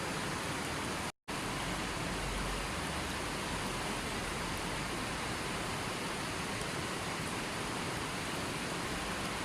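River water flowing, a steady, even rush with no distinct splashes. The sound drops out completely for a split second about a second in, then resumes unchanged.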